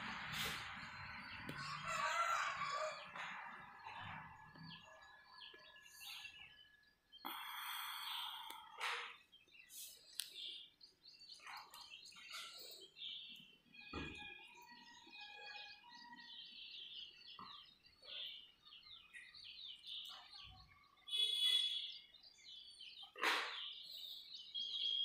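Birds chirping and calling in many short repeated notes, with a few brief rustling bursts.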